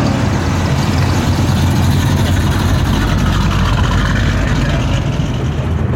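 Car engine running steadily at an even, low speed.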